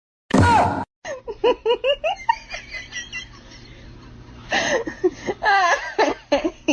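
A person laughing in quick repeated bursts. The laughter dies down in the middle and picks up again about four and a half seconds in.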